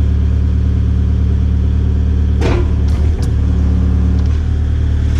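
Kubota KX057-5 excavator's diesel engine running steadily at operating temperature, with a brief clatter of clicks about two and a half seconds in.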